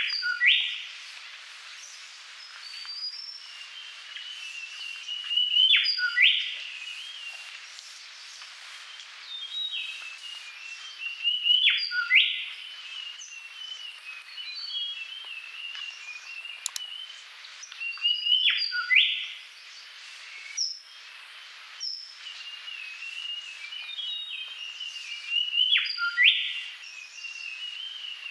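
Birds chirping and calling, with the same bright phrase coming back about every six to seven seconds.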